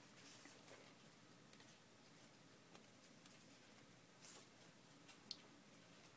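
Near silence with faint rustling of paper sheets being handled and sorted, with a soft brush of paper about four seconds in.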